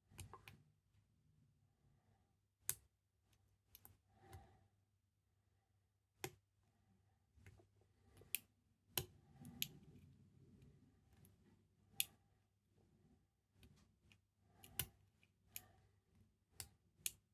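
Faint, irregular sharp clicks of a hook pick working the pins of a five-pin lock cylinder held under tension, about a dozen separate ticks spread out with gaps between.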